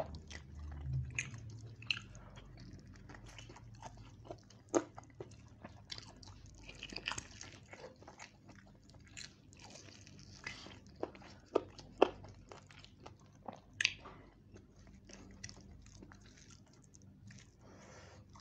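Close-up eating sounds of a man chewing roast chicken and rice: irregular wet mouth clicks and smacks, a few louder ones around the middle.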